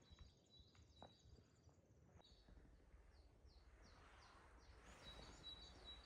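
Faint forest ambience with a bird calling: a run of short, high, falling chirps from about two seconds in, then a thin, steady high note near the end.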